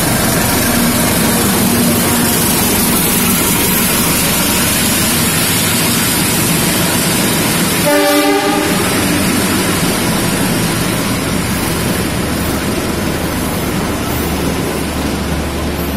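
Passenger train hauled by a CC203-class diesel-electric locomotive running through the station: the steady rumble of the engine and carriages rolling past on the rails. A train horn sounds briefly about eight seconds in.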